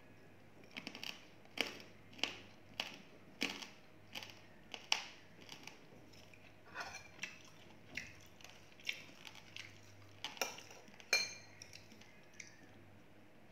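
Someone chewing crispy fried pork belly close to the microphone: a steady run of loud, sharp crunches, about one or two a second, stopping shortly before the end.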